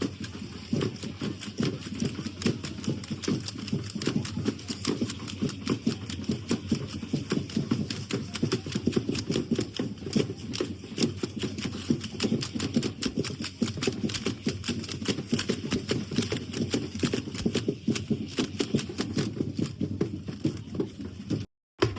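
Dense, rapid clatter of a group of dancers stamping and striking in a Tlaxcalteca dance, with the sound cutting out for a moment near the end.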